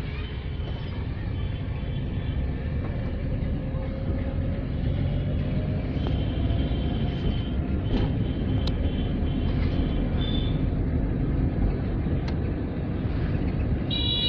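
Steady engine and road rumble of a car being driven, with faint thin tones from high up through much of it.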